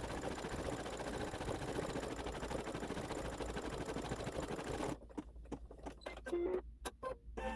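Embroidery machine stitching a satin stitch with a rapid, steady needle rhythm, which stops abruptly about five seconds in. A few sharp clicks and knocks follow as the machine finishes the step.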